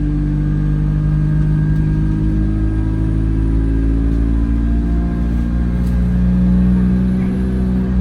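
Alexander Dennis Enviro200 single-deck bus's diesel engine running under way, heard from inside the bus as a steady rumble. Its note climbs slowly in the second half as the revs rise.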